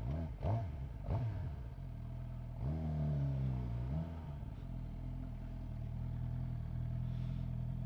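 Suzuki GSX-R750 inline-four engine running under way, with the revs briefly rising and falling about three seconds in.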